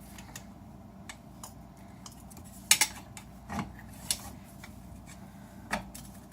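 Scattered light metallic clinks and knocks of hand tools and engine-bay metal parts being handled, the loudest a sharp pair about two and a half seconds in, with others a second later, at about four seconds and near the end.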